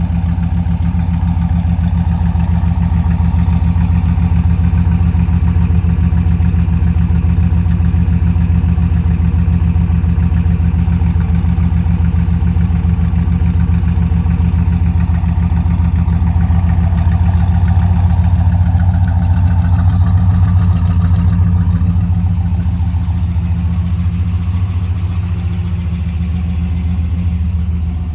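1980 Oldsmobile Cutlass Supreme's 350 small-block Chevy V8 idling steadily with a low exhaust growl. The sound turns more muffled about three-quarters of the way through.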